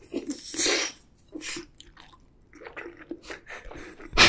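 Close-miked eating sounds from someone chewing a mouthful of raw salmon and rice: a strong short hissing breath near the start, then soft wet chewing clicks.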